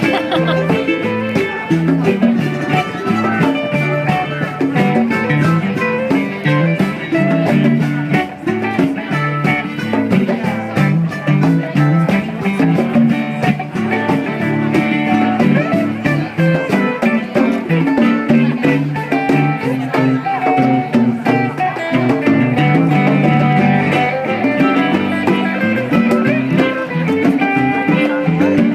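Live band playing an instrumental passage of a blues-rock song without vocals: guitar and other plucked strings over hand percussion, keeping a steady beat.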